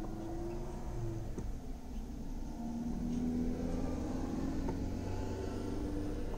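Low, steady vehicle engine rumble with a humming tone that swells a little about halfway through, heard from inside a car. A couple of faint knocks sound over it.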